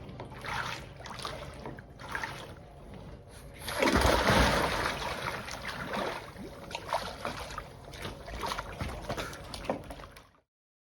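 Water splashing and trickling in irregular strokes from a kayak paddle, with one much louder splash about four seconds in. The sound cuts off suddenly near the end.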